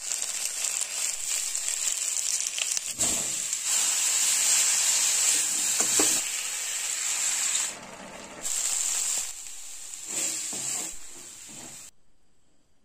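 Onions, green peppers and cauliflower sizzling as they fry in a pan, a steady high hiss with a few clinks of a spoon stirring. The sizzling drops away shortly before the end.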